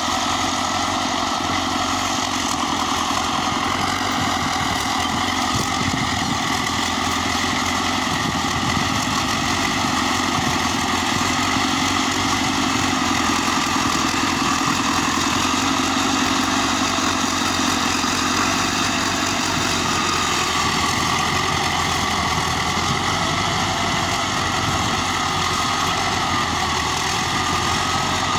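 DT-75 crawler tractor's diesel engine running steadily at idle.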